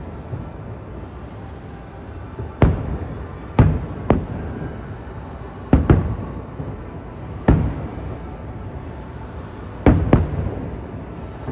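Fireworks bursting at a distance: about eight sharp booms at irregular gaps, some in quick pairs, each dying away over a second or so.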